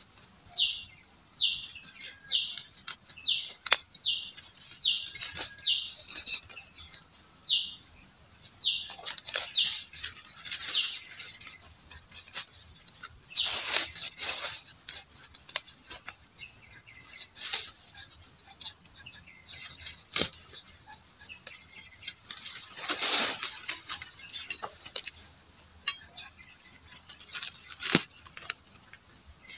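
A bird repeats a short, falling chirp roughly twice a second for about the first ten seconds, over a steady high-pitched insect drone. A few rustles and sharp clicks come in, the loudest rustles about a third of the way in and again past the middle.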